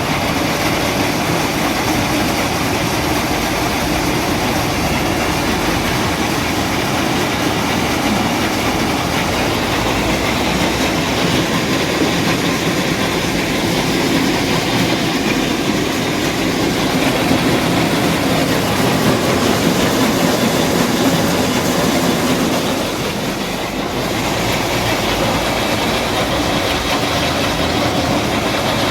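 Tractor-driven rice thresher running, with a steady mechanical rattle and clatter throughout.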